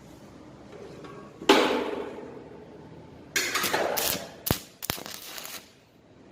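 Steel frame pieces being handled and fitted: a loud metallic clang about a second and a half in that rings away, then a few short clattering knocks and two sharp clicks.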